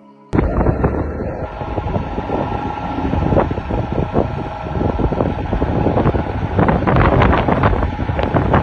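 Loud, gusty wind buffeting the microphone, with irregular crackles, cutting in abruptly just after the start.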